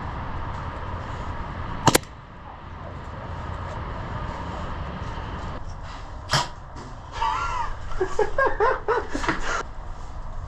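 Two sharp single shots from an airsoft gun, one about two seconds in and another about six seconds in, over a steady background hum. Voices call out briefly near the end.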